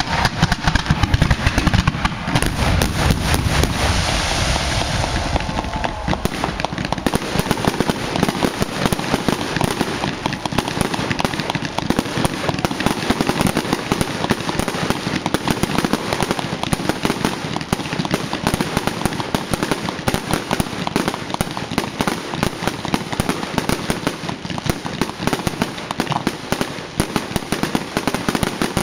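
A fireworks display going off: heavy booms and bangs for the first few seconds, then a dense, continuous rapid crackling of many small cracks.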